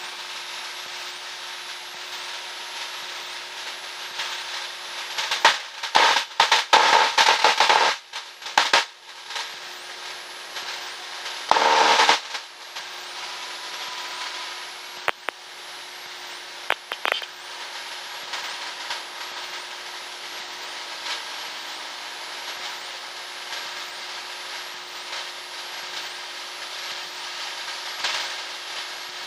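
Cessna 172's engine droning steadily in the cockpit during the climb-out, with loud crackling bursts about six to nine seconds in and again around twelve seconds, and a few single clicks after.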